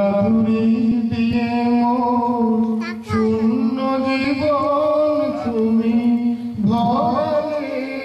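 A man singing a romantic song, holding long notes that slide between pitches.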